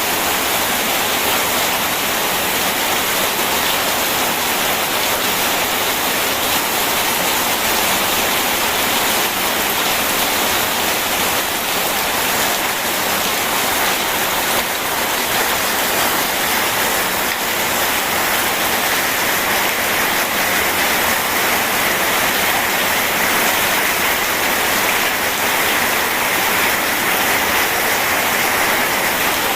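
Steady rain together with rushing river water: a constant, even hiss with no breaks.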